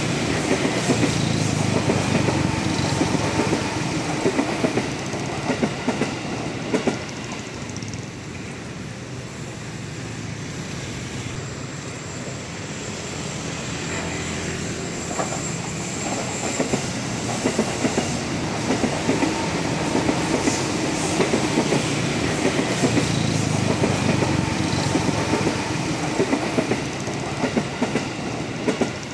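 KRL Commuter Line electric multiple-unit train approaching on a sharp curve and running past below, its wheels rumbling on the rails. The rumble dips for a while, then grows louder in the second half as the train passes beneath.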